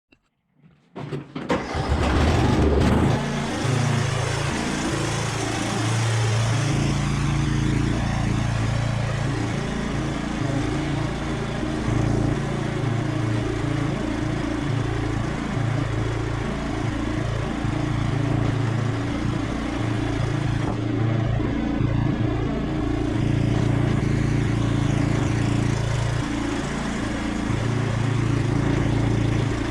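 Cub Cadet XT1 riding lawn tractor engine running steadily at a constant speed.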